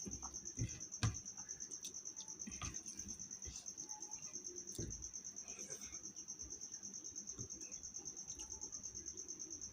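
A cricket chirping in a steady, fast pulsing trill, with a few short clicks and knocks; the loudest knock comes about a second in.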